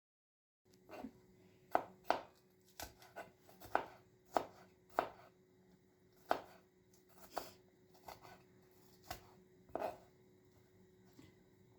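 Knife chopping on a cutting board: sharp, irregular knocks, about one or two a second, starting about a second in.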